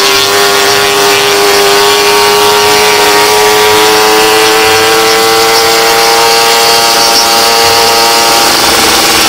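Suzuki Satria 120 S two-stroke single with an aftermarket W-One Racing expansion exhaust, running steadily under way, its note rising slowly as the bike gains speed.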